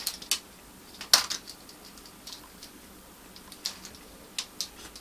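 Scattered small plastic clicks and rustles of a bundle of wires being handled and a plastic cable organiser being worked along it, the loudest click about a second in.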